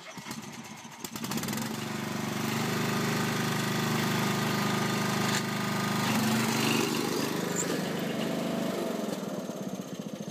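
Lawn mower engine running, picking up speed about a second in and holding a steady run, then dropping back near the end to a slower, pulsing idle.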